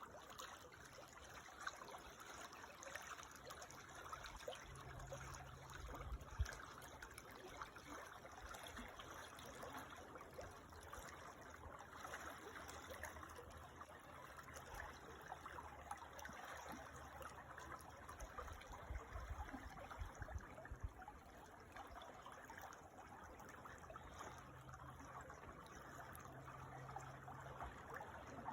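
Creek water trickling and burbling steadily and faintly. A faint low rumble comes and goes, and there is one short thump about six seconds in.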